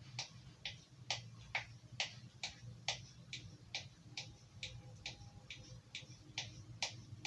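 Knife blade being sharpened with short, even strokes, about two a second and some sixteen in all, while the strokes for one side of the blade are counted out.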